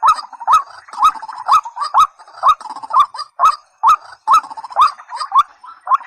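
A waterbird of the rail family calling over and over, a run of short hooked notes around two a second, each with a sharp click.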